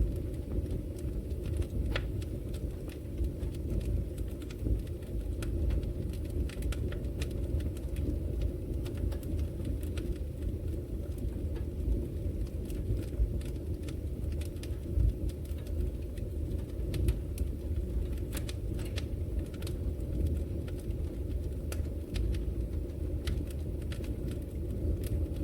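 Wood fire crackling in a fireplace: a steady low rush of burning, with frequent small sharp pops and snaps scattered throughout.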